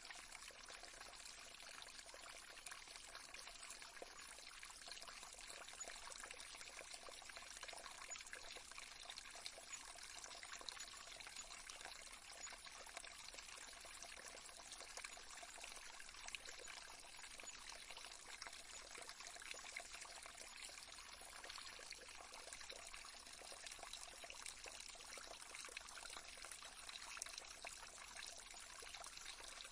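Faint, steady trickle of running water from a small stream.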